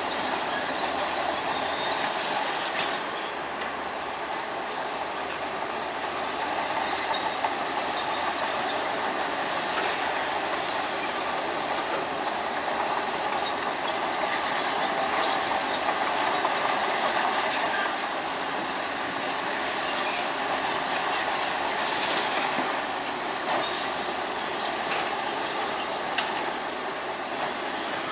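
Crawler bulldozer at work: its engine runs steadily under a continuous clatter and squeal from the steel tracks.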